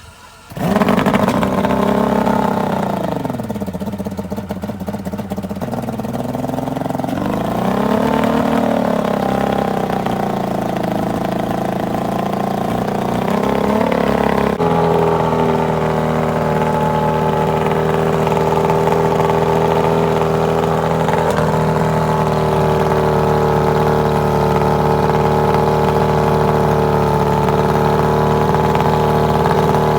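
Boat motor of a Bertram 20 catching and running, its pitch swinging down and up twice as the throttle changes. About halfway through it settles into a steady idle.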